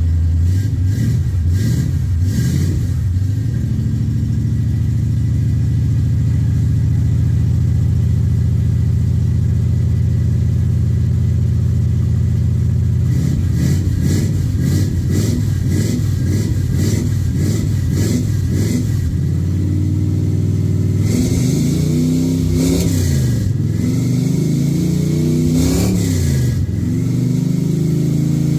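1971 Chevrolet C20 pickup's engine running soon after a cold start: a steady idle for about the first thirteen seconds, then repeated revs that rise and fall, coming more often in the last several seconds.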